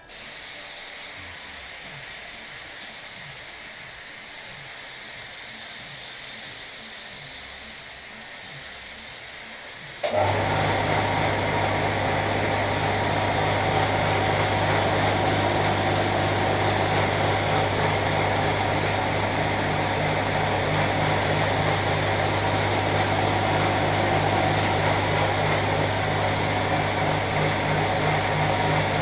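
A steady hiss, then about ten seconds in a much louder machine starts up: a constant low hum under a rushing noise, running on steadily.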